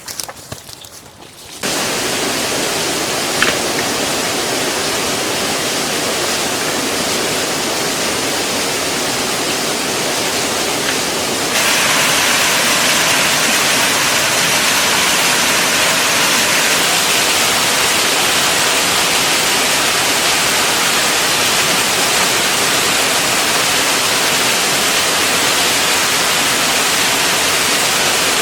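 Steady rush of falling water, starting suddenly about two seconds in and turning louder and hissier about twelve seconds in.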